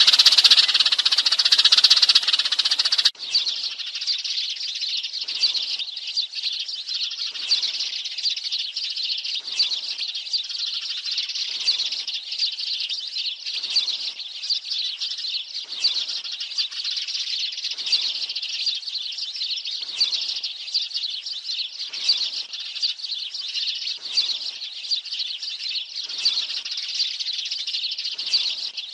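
Dense, continuous chatter of a sparrow flock, the kind of call recording played to lure sparrows. About three seconds in it changes suddenly to a slightly quieter stretch, in which a fainter note recurs about every two seconds.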